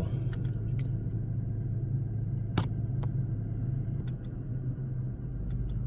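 2023 Toyota Tacoma's engine idling steadily with a low hum, a single sharp click about two and a half seconds in.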